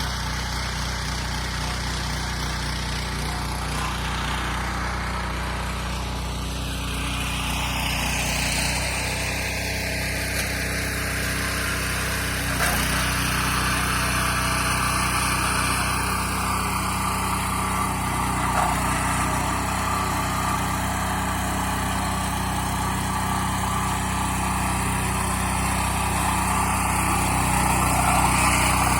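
Single-cylinder engine of a walk-behind tractor (motoblock) running steadily while it works the garden soil.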